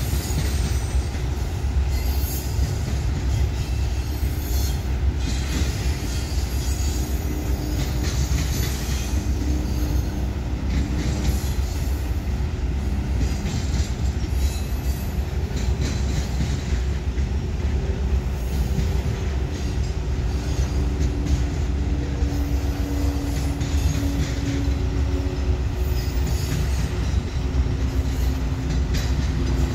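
Railroad cars rolling past at a steady pace: a continuous low rumble of wheels on rail, with wavering wheel-squeal tones and some clatter over it.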